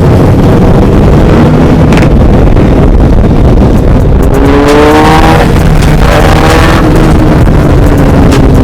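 Motorcycle engines running loud, with one revving up sharply about halfway through and then easing off, over a heavy low rumble.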